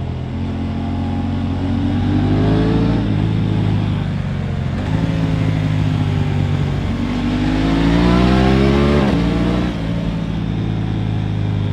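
Aprilia RS 660's parallel-twin engine pulling under load while riding. The revs climb twice, the second time longer and higher, then fall sharply about nine seconds in.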